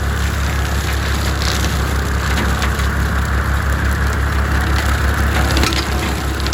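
Small tractor running under load with a wide tractor-mounted brush cutter, a steady low drone with scattered cracks and snaps of brush and wood being cut and shredded by the blades.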